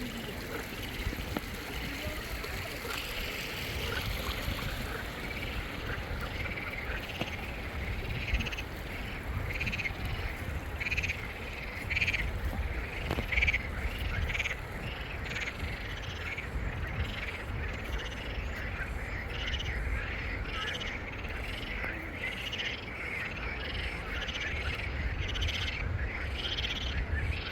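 Frogs calling in a chorus, short croaks repeating over and over, with a steady low rumble underneath.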